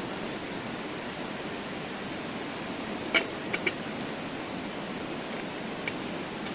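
Steady rushing of a mountain stream. A few sharp light clicks come quickly one after another about three seconds in.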